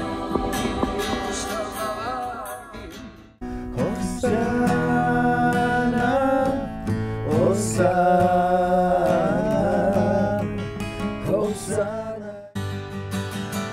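Acoustic guitar strummed with men singing along. The sound changes abruptly about three seconds in and again near the end, where one take is cut to the next.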